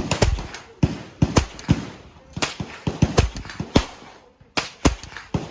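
A rapid, irregular string of .22 rimfire rifle shots, about eighteen in the space of five seconds. Some come a fraction of a second apart, as if from more than one gun firing at once. A short pause falls a little after the middle.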